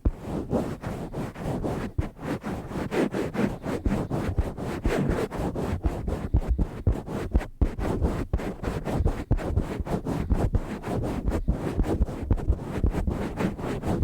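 Hands rubbing, swirling and squeezing a cover on a microphone: a continuous rough, scratchy rustle heavy in the low end, rising and falling in quick, irregular pulses.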